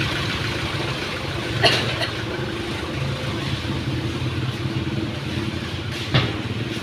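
A steady low engine hum, like a motor idling, with two short sharp knocks, one near the start and one near the end.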